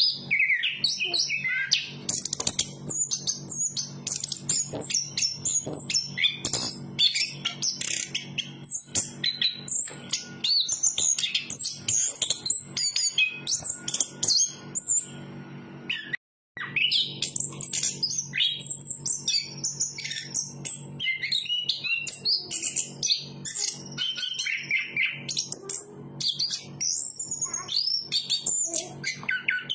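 Chestnut-capped thrush singing a fast, unbroken run of varied high chirps and whistles over a low steady hum. The song cuts out for half a second about halfway through, then resumes.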